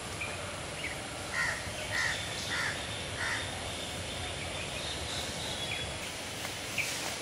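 A bird calling: a run of about four short, harsh calls spaced roughly half a second apart, starting about a second in, over a steady outdoor background noise.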